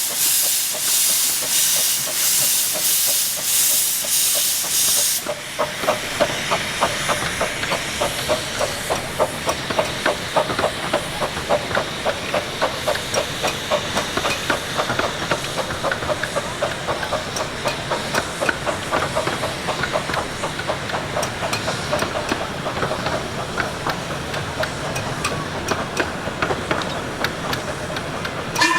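RHDR 15-inch gauge steam locomotive Green Goddess starting a heavy train of about 13 or 14 coaches. For about the first five seconds there is loud, pulsing steam hiss. Then come steady exhaust beats that quicken as it pulls away, with some controlled wheelslip on the start.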